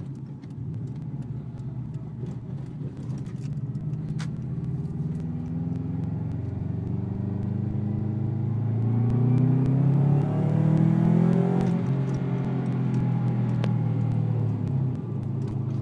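A 2005 Subaru WRX's turbocharged flat-four, breathing through a catless downpipe and an Invidia N1 race turbo-back exhaust with no silencer, heard from inside the cabin. It pulls hard under wide-open throttle, the note climbing in pitch and getting louder for several seconds to a 'little aggressive' peak, then dropping back in pitch near the end as the throttle eases.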